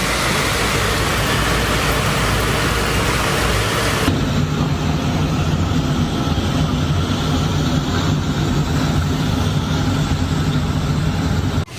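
Typhoon gale blowing hard against the microphone. About four seconds in, the hiss thins out and a steady low drone dominates, and the sound cuts off abruptly at the very end.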